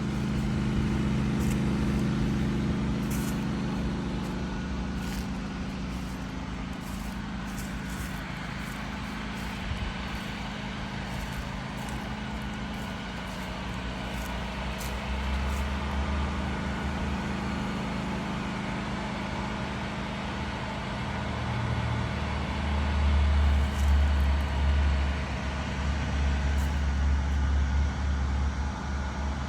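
A steady low engine hum, with a deeper rumble that grows louder about halfway through and again near the end.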